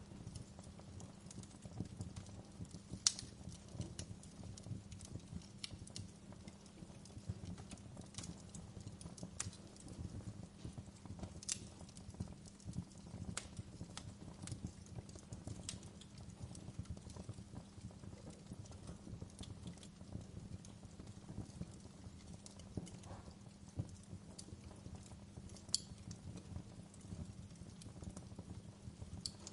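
Wood fire crackling: irregular sharp pops and snaps over a steady low rumble, the loudest pops about three seconds in and near the end.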